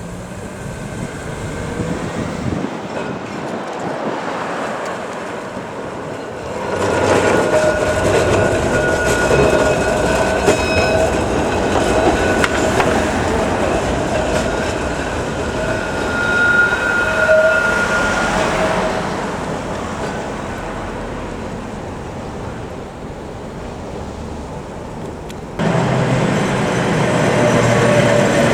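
Blackpool heritage tram running along the rails, its wheels rumbling and squealing loudly for about twelve seconds before fading away. Near the end a louder sound with a low hum cuts in suddenly.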